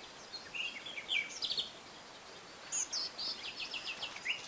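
A small bird singing in two quick runs of short, downward-sweeping chirps, the first about half a second in and the second near three seconds, over a steady faint hiss.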